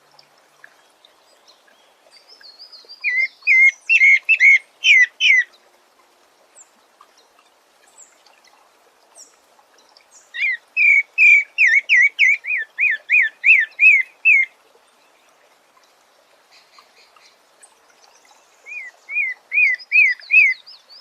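A sabiá thrush singing: three phrases of quick, repeated whistled notes, the first about three seconds in, the longest in the middle, and a short one near the end, with pauses between them. A fainter, higher twitter sits alongside the first and last phrases.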